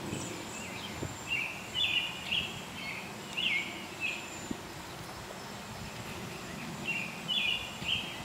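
A songbird singing two runs of short, quick notes, one starting about a second in and another near the end, over steady outdoor background noise with a faint high insect-like hum.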